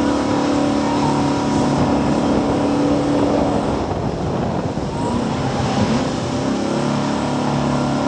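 High-speed boat engine running hard at speed, a steady drone. About halfway through, the even tone breaks up into a rougher rushing noise for a couple of seconds, then settles again.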